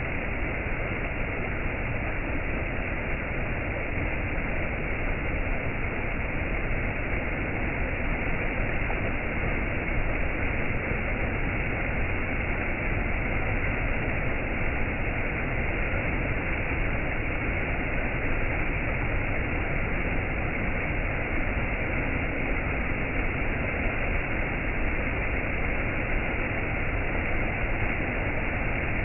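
Waterfall: a steady, unbroken rush of falling water, with no changes or events. It sounds dull, with no high hiss above the low and middle range.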